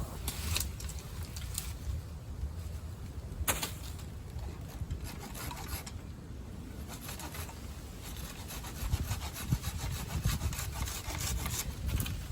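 Hand saw cutting through wood in repeated back-and-forth strokes, which come thicker and faster in the second half.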